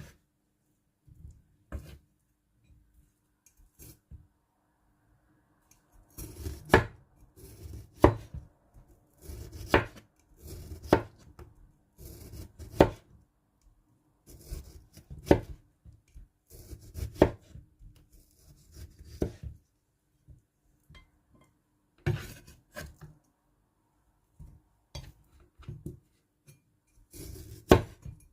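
A knife cutting kiwi fruit against a cutting board: irregular sharp knocks as the blade meets the board, a second or two apart. They are sparse at first and come steadily from about six seconds in.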